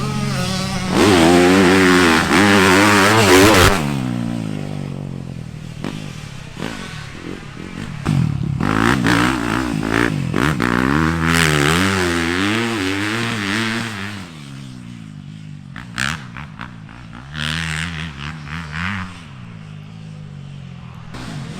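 Yamaha 250 motocross race bike ridden around a tight corner track, its engine revving up and falling off again and again through the corners. It is loud on two close passes and fainter on short bursts near the end.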